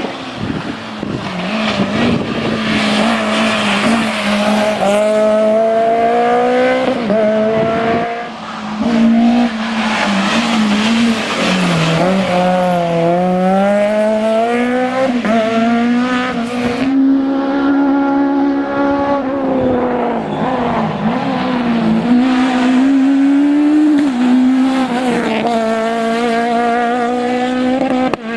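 Citroën Saxo Kit Car rally car's four-cylinder engine at high revs, its pitch climbing and dropping again and again as it is driven hard through gear changes and lifts off the throttle.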